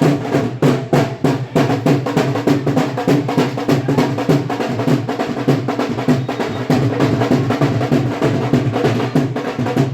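Loud drum-heavy band music: drums beating a steady, rapid rhythm under a melody.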